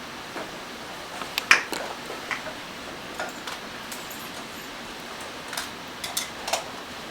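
Scattered light clicks and taps of small watchmaking hand tools, such as tweezers and screwdrivers, against metal parts and the bench, over a steady room hiss. The sharpest tap comes about a second and a half in.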